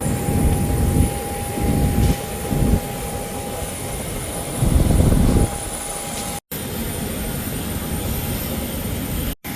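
Airliner engines whining on the tarmac: a steady high-pitched whine with a fixed tone, over a loud low rumble that swells and falls in uneven gusts.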